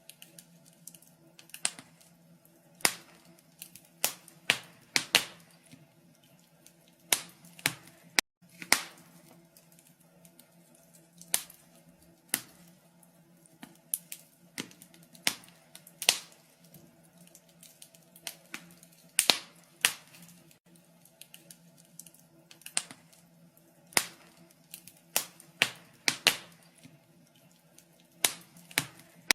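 Wood fire crackling in a fireplace: sharp, irregular pops and snaps, one or two a second, over a faint steady low hum.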